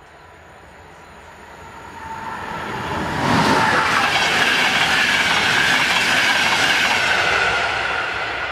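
Czech Railways passenger train passing over a level crossing. The sound of the approaching train builds over the first three seconds, then the coaches' wheels on the rails are loud and steady for about four seconds, and it starts to fade near the end.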